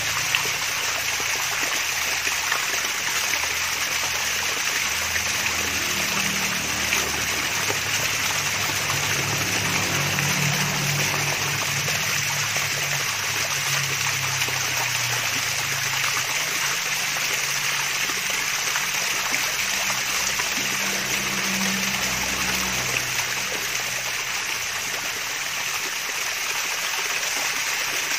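Water from a small waterfall running and trickling steadily as it splashes and babbles.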